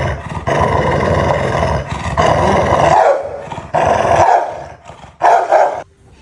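A frightened dog growling and snarling loudly in four bouts, the longest about two and a half seconds, with short gaps between them.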